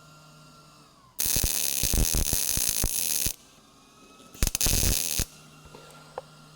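MIG welder filling plug welds in a truck cab floor pan: two bursts of crackling, buzzing arc, the first about two seconds long and the second about a second, with a faint steady hum between.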